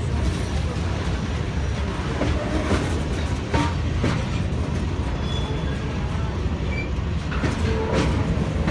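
Freight train cars rolling past at close range: a steady low rumble of steel wheels on the rails, with irregular clicks and clacks from the wheels.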